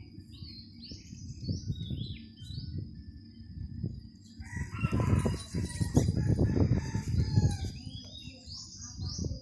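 A rooster crowing once, a long call of about three seconds starting about halfway through, over low rumbling, short high chirps and a steady high whine.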